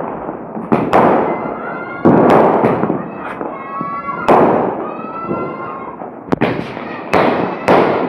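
Sky-shot aerial fireworks going off in a rapid series: about seven sharp bangs a second or two apart, each trailing off in a hissing crackle.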